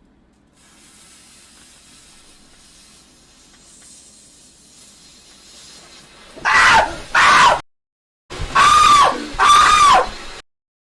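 A lit firework hisses faintly and steadily for about six seconds. Then loud, high-pitched screams break out, cut off twice by brief dead silences.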